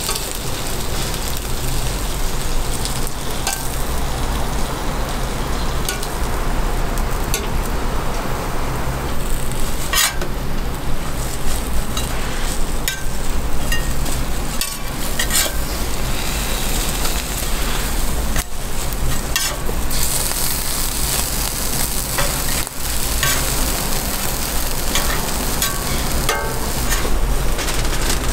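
Food sizzling as it fries on a street-toast griddle, a steady frying hiss over a low hum, broken now and then by short sharp clicks and scrapes of a cooking utensil.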